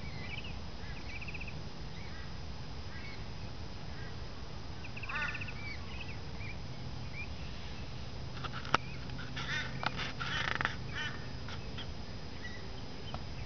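Birds calling now and then over a steady low background rumble, with short trilled calls and a livelier burst of calls and a few sharp clicks a little past halfway.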